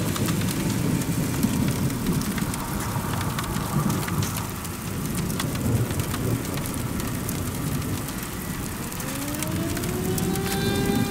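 Heavy rain pattering on the street and car, with sharp drop ticks over a deep, steady storm rumble. About nine seconds in, a siren winds up, its pitch rising and then holding on a steady wail.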